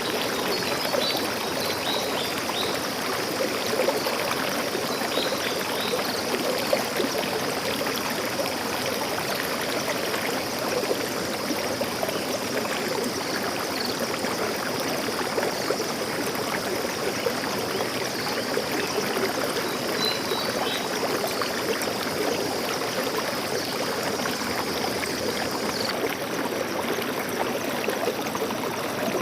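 Stream water flowing and splashing steadily, with a few faint, short, high bird chirps scattered through it.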